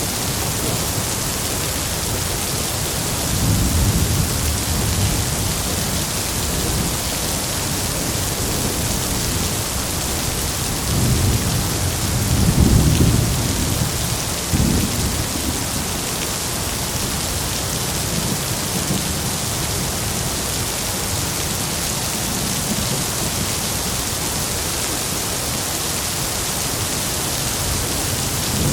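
Heavy rain falling as a steady hiss, with low thunder rumbling several times, the loudest roll about halfway through.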